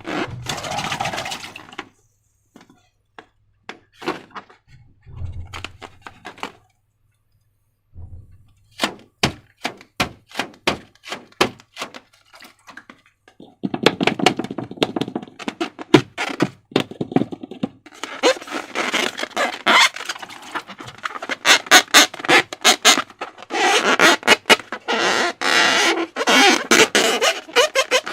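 Slime being squeezed and worked by hand, making sticky clicks and crackles: a few scattered clicks at first, then a quick run of separate clicks, then a dense, continuous crackling from about halfway through.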